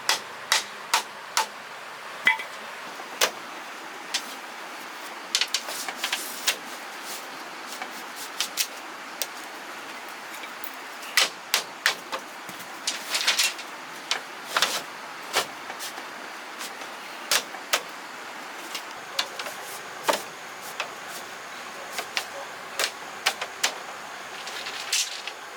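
Sharp, irregular knocks and taps of hand-tool work, some in quick clusters and others spaced a second or more apart.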